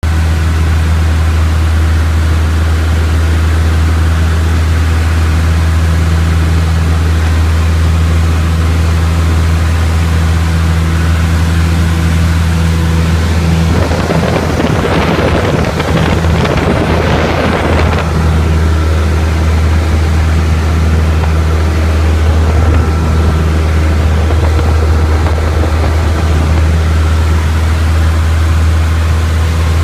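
Piper Tomahawk's four-cylinder Lycoming engine and propeller droning steadily at a constant pitch, heard inside the cockpit. Near the middle, for about four seconds, a rougher rushing noise rises over the drone.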